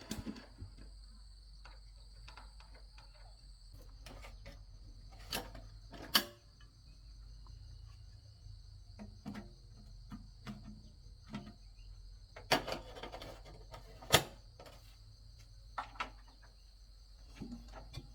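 Crickets chirring steadily at a high pitch, with scattered sharp knocks and clicks of metal work; the loudest knocks come about 6 and 14 seconds in.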